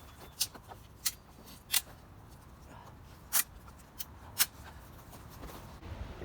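Sharp, dry cracks of firewood being broken up for a campfire: about six irregular snaps, the loudest about a second and a half, three and a half and four and a half seconds in.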